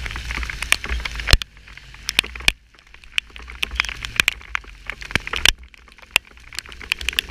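Heavy rain striking an action camera on a moving motorcycle: many irregular sharp taps of drops hitting the housing. A low rumble of wind and riding runs under them and drops away after about a second and a half.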